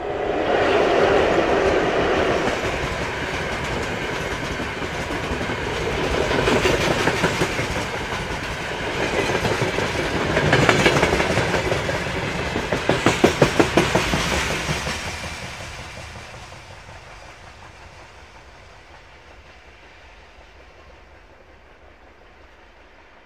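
Freight train passing close by, its wagon wheels clattering over the rail joints in rhythmic runs of clicks, loudest after about thirteen seconds. The clatter then fades away steadily as the tail of the train recedes.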